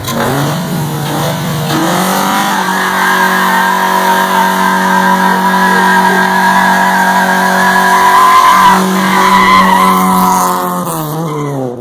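Honda F22A four-cylinder engine, already knocking a rod, revved up and held at high rpm through a burnout, with tires squealing. The revs climb over the first couple of seconds, hold steady, then fall away near the end.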